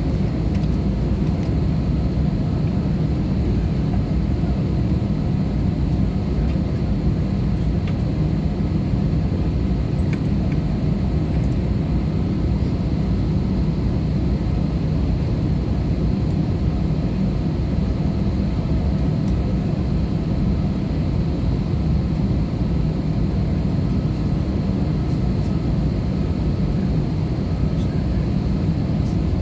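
Steady in-flight cabin drone inside an Airbus A320-214: airflow and CFM56-5B engine noise, heaviest at the low end, with a faint steady high whine.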